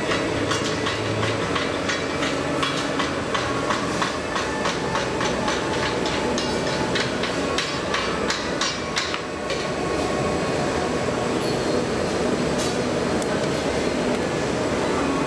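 Steady rumbling noise with many rapid sharp clicks and taps, thickest in the first ten seconds and sparser after that.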